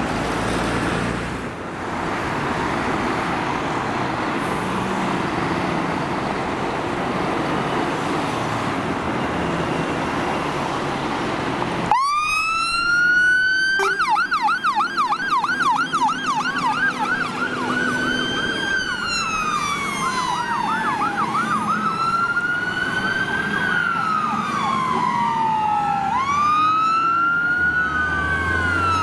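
Road traffic noise, then about halfway through an emergency vehicle's electronic siren starts with a rising wail. It switches to a fast yelp for a few seconds, then to slow rising and falling wails, with a second siren overlapping.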